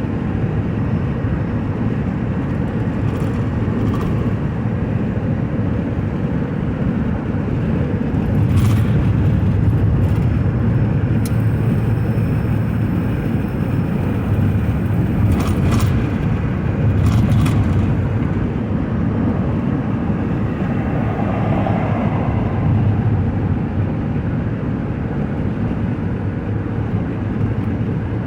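Car driving at freeway speed, heard from inside the cabin: a steady low road and engine drone, with a few brief clicks or taps now and then.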